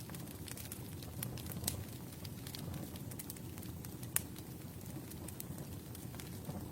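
Campfire burning: a steady low rush of flames under scattered sharp crackles and pops from the burning wood, the loudest pop about four seconds in.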